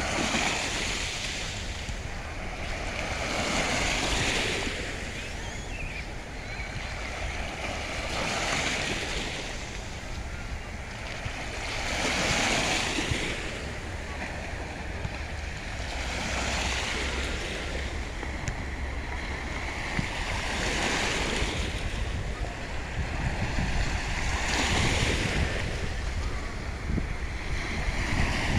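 Sea waves breaking and washing on the shore, surging louder about every four seconds, with wind rumbling on the microphone underneath.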